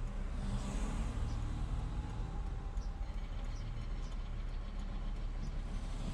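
Steady road and engine noise of a car being driven, heard from inside the cabin as a low rumble.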